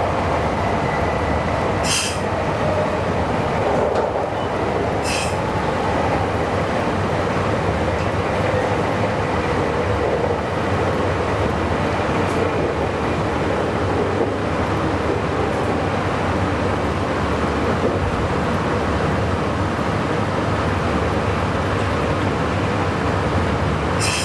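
Meitetsu 9500-series electric train running at speed, heard from inside the car: a steady rumble of wheels on rail. A couple of brief high-pitched sounds come about two and five seconds in.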